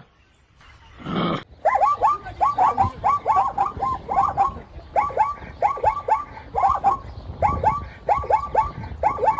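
An animal's calls: one longer call about a second in, then fast runs of short, falling, pitched calls, several a second.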